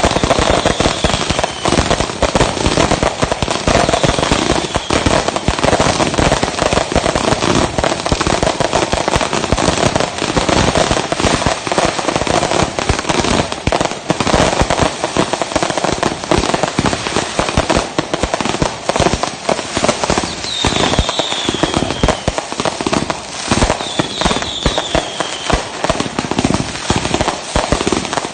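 Fireworks finale: a dense, continuous barrage of explosions and crackling bursts with no let-up, and now and then a short falling whistle.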